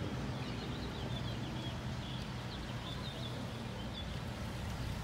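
Small birds chirping in a quick run of short, high calls over a steady low background rumble.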